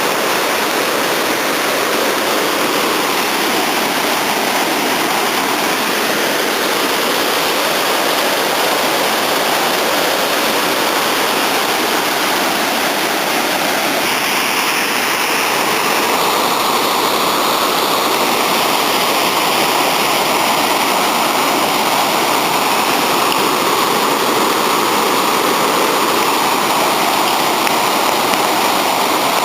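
Waterfall: a loud, steady rush of falling water, its tone shifting slightly about halfway through.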